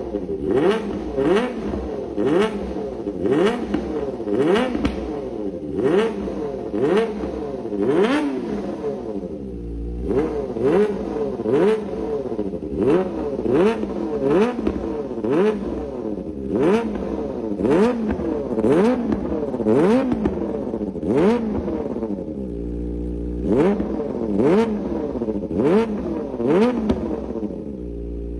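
Superbike engine being free-revved through its exhaust in quick throttle blips, more than once a second, each a sharp rise and fall in pitch. It drops briefly to a steady idle twice and settles back to idle at the end.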